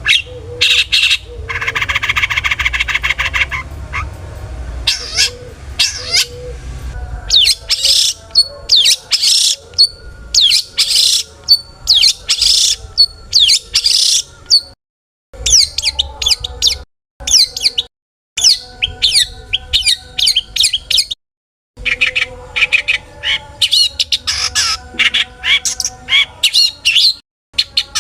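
Long-tailed shrike (cendet) singing hard: a fast, varied run of short, sharp, high notes and harsh calls, with a rapid buzzy rattle near the start. The song is packed with imitations of other birds' calls. It breaks off for a few brief silent moments in the second half.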